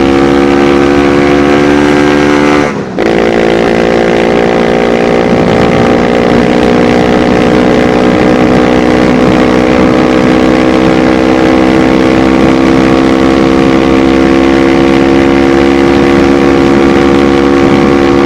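Apollo dirt bike engine running at steady high revs under riding load. About three seconds in the throttle briefly closes and the note drops, then the engine picks up again and its pitch climbs slowly.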